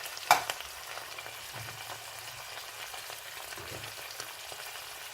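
Sauce of garlic-ginger paste, ketchup, soy sauce and honey sizzling steadily in a frying pan while it is stirred. There is one sharp knock against the pan about a third of a second in.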